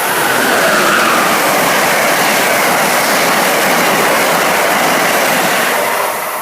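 Amtrak Northeast Regional train hauled by an ACS-64 electric locomotive passing at speed: a loud, steady rush of wheels on rail and moving air, easing off near the end as the train goes away.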